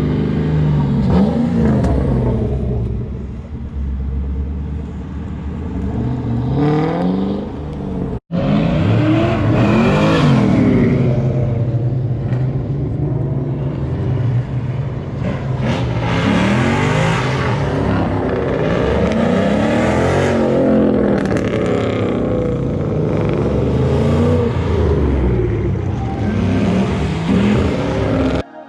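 Car engines revved again and again, the pitch climbing and dropping in a string of blips, loud throughout. About eight seconds in there is a sudden split-second break in the sound.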